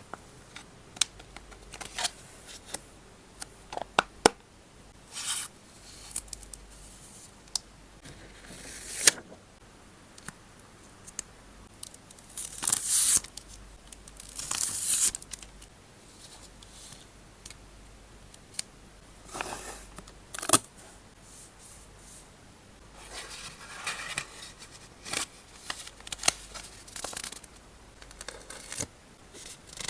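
Photocards and their plastic and paper packing handled up close: irregular crinkling and tearing noises, some lasting about a second, with sharp taps and clicks in between, over a steady background hiss.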